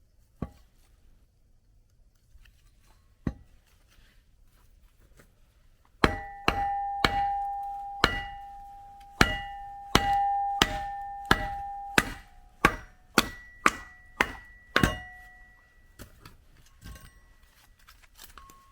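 Firewood being split with steel striking steel. There are two single knocks, then about six seconds in comes a quick run of about sixteen blows, roughly two a second, each with a ringing metallic tone that carries on between them. The blows stop about fifteen seconds in.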